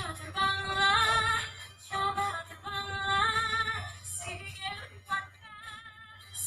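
A woman singing a slow pop song in sustained, wavering notes over a soft backing track.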